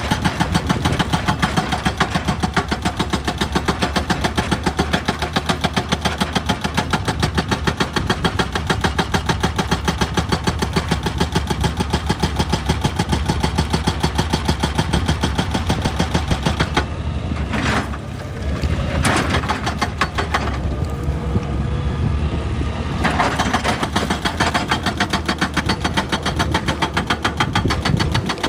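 Excavator's diesel engine running with a fast, even pulsing, dipping briefly about eighteen seconds in.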